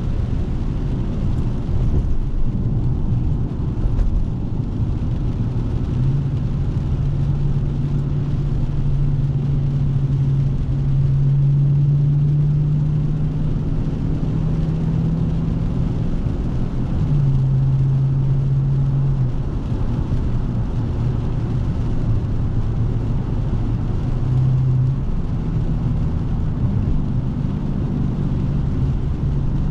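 Dodge Scat Pack's 6.4-litre 392 HEMI V8 running under way with a steady low drone; the drone strengthens about a fifth of the way in, drops in pitch once around the middle, then eases off.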